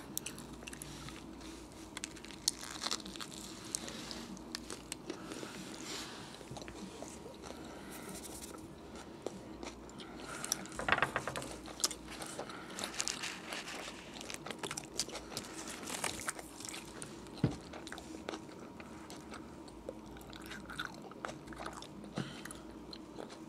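Close-up biting and chewing of a Subway roast beef sandwich on soft, untoasted bread, with many small wet mouth clicks, over a faint steady hum. A louder patch of chewing comes about eleven seconds in.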